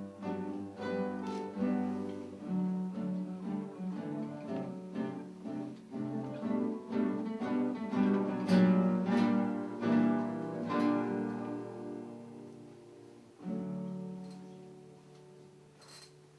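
An acoustic guitar ensemble plays a piece of plucked notes that swells to its fullest around the middle, thins out, and ends on a last chord struck about three seconds before the end and left to ring and fade.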